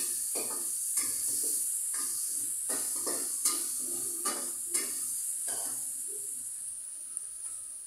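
Food sizzling in a hot cooking pan while a utensil stirs it, scraping against the pan about once or twice a second. The stirring stops about six seconds in, leaving the sizzle alone, which fades slowly.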